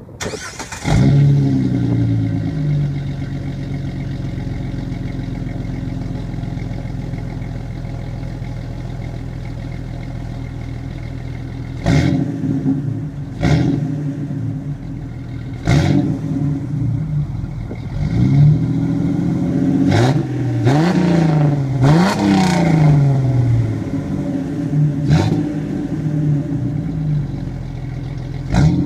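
2003 Jeep Wrangler TJ's 4.0-litre straight-six started about a second in, flaring up and settling to a steady idle, breathing through a Spintech Sportsman muffler with no catalytic converter. After about ten seconds of idle it is blipped repeatedly, with about nine short revs that rise and fall back to idle.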